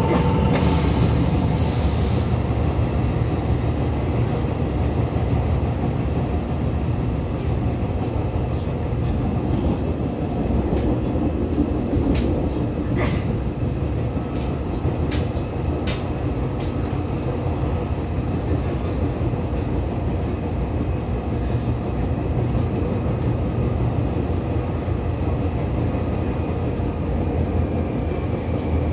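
Seibu 2000-series electric train running between stations, heard from inside the car: a steady rumble of wheels on rail with a few sharp clicks. The train has a flat spot on a wheel.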